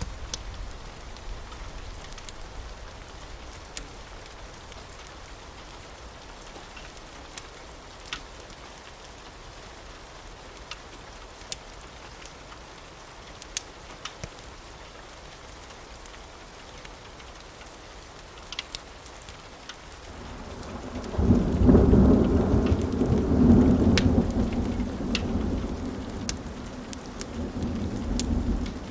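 Steady rain with scattered sharp crackles, then about two-thirds of the way through a long roll of thunder swells up, peaks and slowly rumbles away over several seconds.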